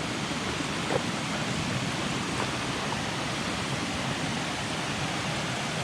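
Steady rush of a jungle waterfall and its cascading stream, an even noise with no change.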